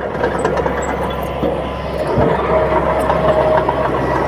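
Crawler bulldozer's diesel engine running steadily under load, with light metallic clicks from the machine and a steady whine that comes in about halfway through.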